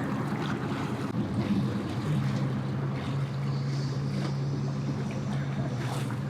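An engine idling steadily as a low hum that firms up about two seconds in, with wind on the microphone.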